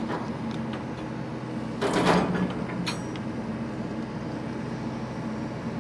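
Excavator's diesel engine running steadily, with a brief loud rush of noise about two seconds in and a short click a second later.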